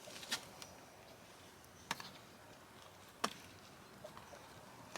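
Three short, sharp clicks or knocks, each about a second and a half apart, over a faint hiss.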